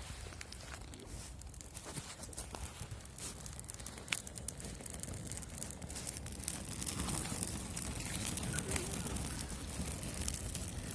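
Small campfire crackling and popping: a light rushing hiss with scattered sharp snaps that come thicker in the second half.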